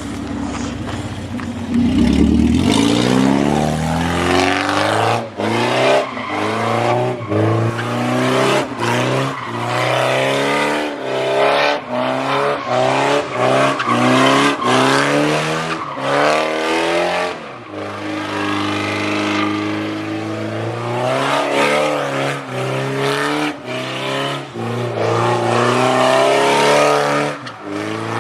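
Car engine revved hard over and over, its pitch climbing and falling in quick surges with short breaks between them.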